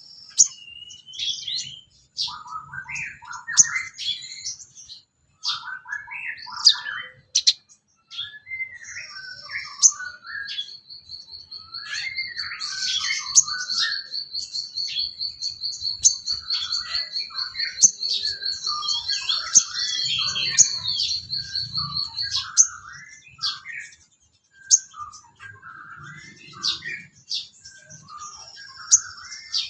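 Recorded songbird calls: a string of varied chirps and warbled phrases, with a long, even buzzing trill starting about ten seconds in and lasting some twelve seconds, over which the chirps carry on.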